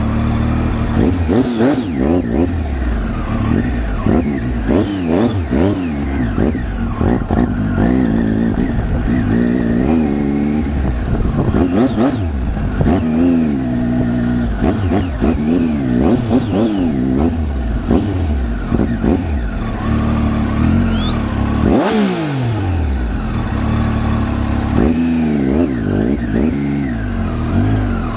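Triumph Tiger 800's three-cylinder engine being ridden on a dirt track, the revs rising and falling over and over as the throttle is opened and closed.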